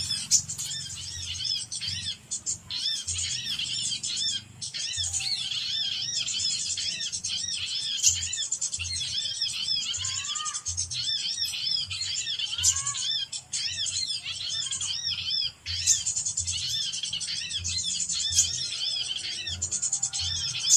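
Dense, rapid high-pitched chirping of small birds, arched notes repeated many times a second with only brief pauses, over background music with a low, steady beat.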